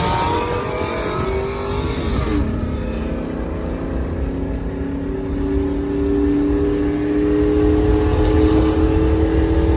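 A motor vehicle's engine accelerating, its note climbing slowly and steadily and growing a little louder, over a low rumble. The sound changes abruptly about two seconds in.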